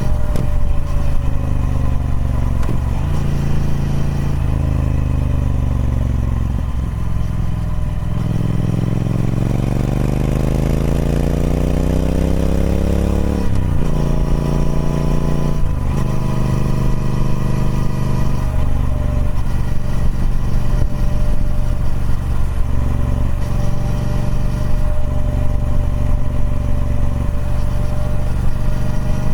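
Triumph Speed Twin 1200's parallel-twin engine on its stock exhaust, ridden through the gears. Its pitch falls for several seconds, then climbs steadily under acceleration for about five seconds, drops sharply at two upshifts, and settles to a steady cruise.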